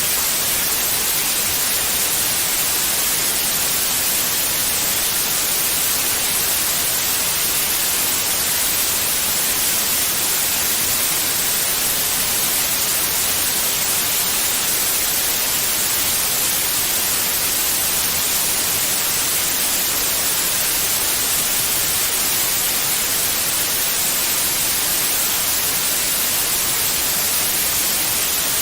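Steady white noise: an even, unchanging hiss, bright and strongest in the high range.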